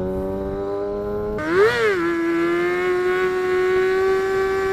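Motorcycle engine running steadily, its pitch creeping slowly upward, with a brief rise-and-fall swoop about a second and a half in.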